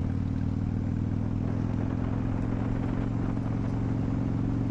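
Harley-Davidson Dyna Wide Glide's 103 cubic-inch V-twin with Vance & Hines slip-on exhaust, running at a steady cruise with an even, unchanging exhaust note.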